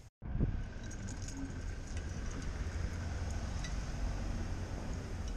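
A steady low rumble with scattered light clinks and rattles over it.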